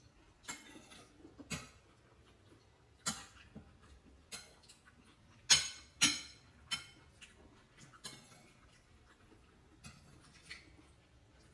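Kitchen utensils clinking and knocking: a string of irregular sharp clicks, the two loudest about five and a half and six seconds in.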